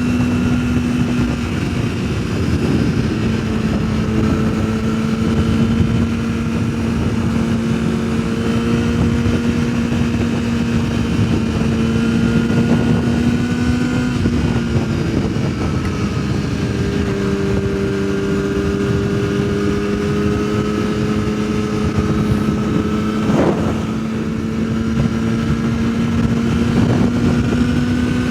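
Yamaha sportbike engine running at steady cruising revs, with heavy wind rush over the rider's microphone. The engine note drops a little about halfway through and climbs again near the end, and there is one brief click late on.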